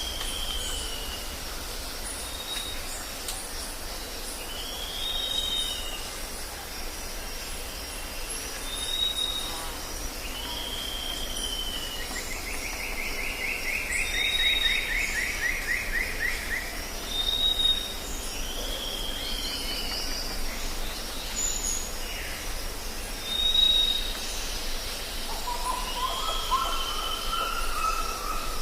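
Jungle ambience: birds calling over a steady high insect drone. One bird repeats a short arching whistle about every four seconds, with brief higher notes between; a fast trill runs for about five seconds in the middle, and lower, quicker calls come in near the end.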